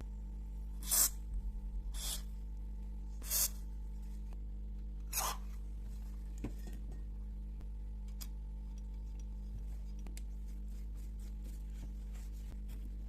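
Four short rasping sounds in the first five seconds, then a few faint clicks, over a steady low electrical hum.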